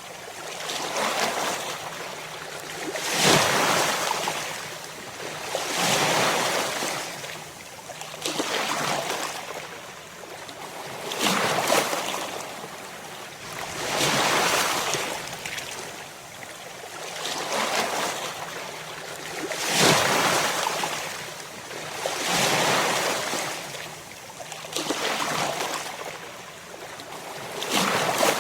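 Ocean surf: waves breaking and washing in. A wide hiss swells and fades in regular surges about every two and a half to three seconds.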